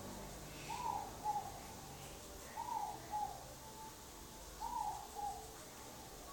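A bird's two-note call, a longer note followed by a shorter one, repeated three times about two seconds apart, faint over a low background rumble.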